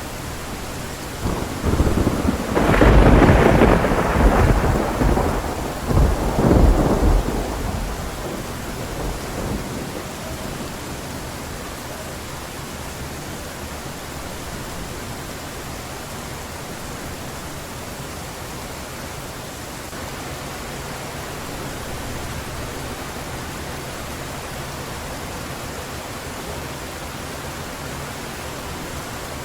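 Heavy rain falling steadily, with a long rolling peal of thunder starting about a second and a half in, rising to several peaks and fading away after about eight seconds.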